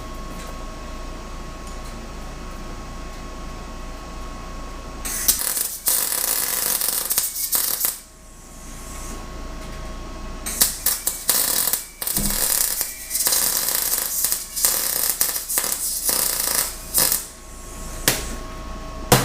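Welder crackling in bursts: one run from about five to eight seconds in, then a longer stretch of short runs with brief stops between. Before it, a steady hum with a faint whine.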